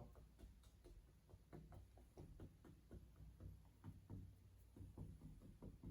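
Faint, irregular taps of a fan brush dabbing acrylic paint onto a canvas, a few a second, over a low steady hum.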